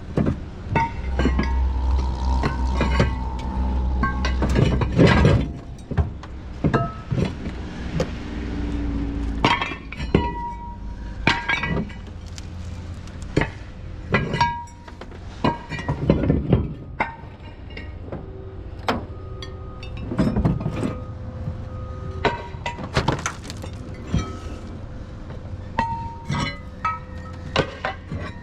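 Metal and glass of a truck body being scrapped: many irregular clanks and bangs, some ringing out, with glass clinking and breaking, and a low rumble in the first few seconds.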